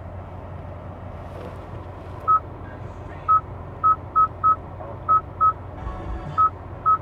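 Short single-tone beeps from the 2020 Hyundai Sonata's infotainment controls, nine of them at irregular spacing: button-press feedback as stations and menus are selected. They sit over a steady low hum in the car's cabin.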